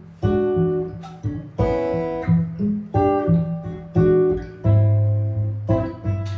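Jazz guitar improvising: chords and plucked notes struck about once a second and left to ring and fade, with a low bass note ringing out about two-thirds of the way through.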